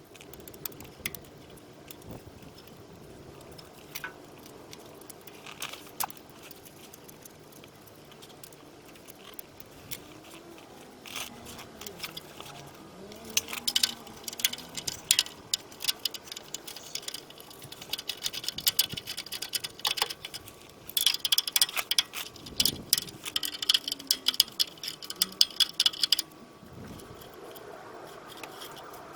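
Hand tools working on a car during engine removal: scattered metallic clicks at first, then two long spells of fast clicking and rattling, the second stopping suddenly a few seconds before the end.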